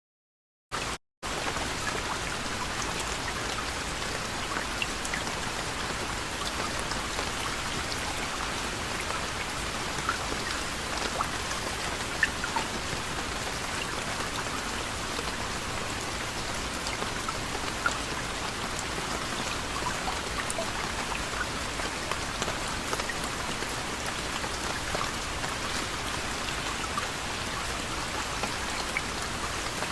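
Steady soft rain: an even hiss with scattered sharper drops ticking on a surface. It comes in about a second in, after a short break of silence and a brief blip.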